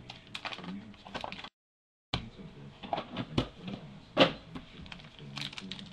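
A trading card box and its packaging being handled and opened by hand: a run of sharp clicks, knocks and rustles. The sound cuts out completely for about half a second near the middle.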